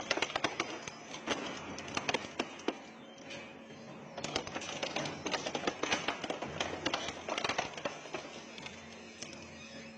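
Industrial shredder running with a steady motor hum while its cutters crack and crunch through hard material, giving a dense, irregular run of sharp snaps.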